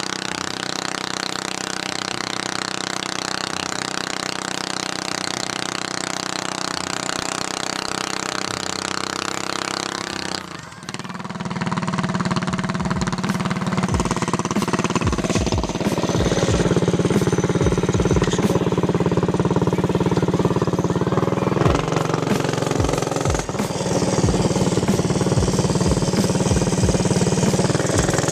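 Mini bike's 212 cc single-cylinder four-stroke engine with a performance exhaust header, running loud. About ten seconds in it briefly drops off, then comes back louder and deeper, with scattered short low thumps.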